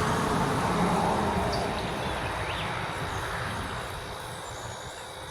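A vehicle passing: a broad rushing noise, loudest in the first second or so, then slowly fading away.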